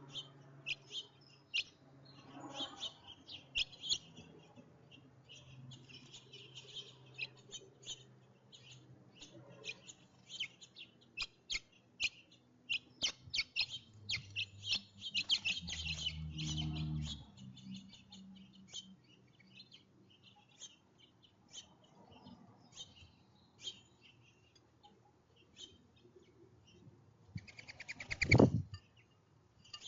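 Small songbirds at a backyard feeder chirping and twittering in quick, busy bursts. Near the end there is one loud knock close to the microphone.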